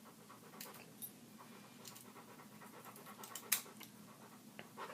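A dog panting softly, with a few light clicks, the loudest about three and a half seconds in.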